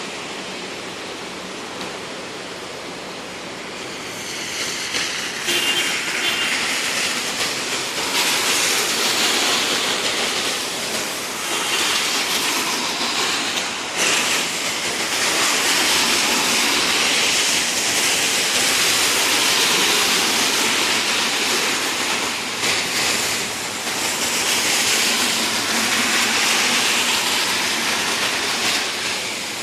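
Heavy rain falling in a steady hiss, growing louder about four seconds in and then holding steady.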